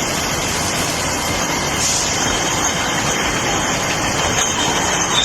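Factory machinery running with a steady, dense mechanical noise, with faint high steady tones over it.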